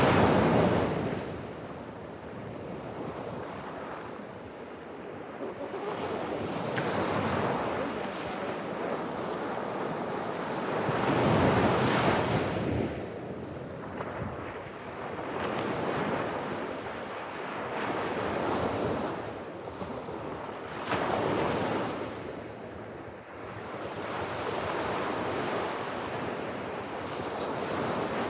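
Pacific Ocean surf: waves breaking and washing up the beach one after another, the sound swelling and ebbing every few seconds, with the loudest surges near the start and about twelve seconds in. Wind buffets the microphone throughout.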